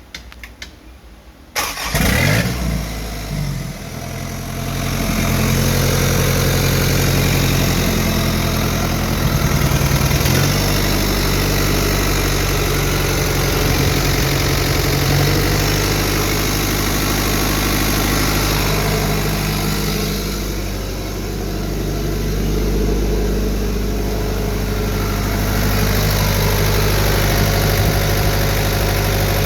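Mitsubishi Fuso Canter's 4D34 turbodiesel four-cylinder engine: a few faint clicks, then it fires up about two seconds in and settles into a steady idle.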